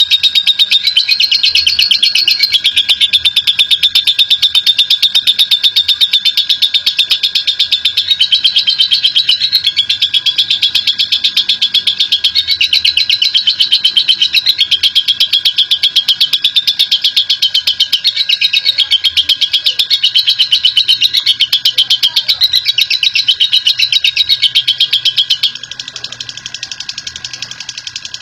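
Lovebird singing its long, rapid chattering trill ("ngekek panjang"), a fast unbroken stream of high notes whose pitch wavers up and down. It drops much quieter about 25 seconds in.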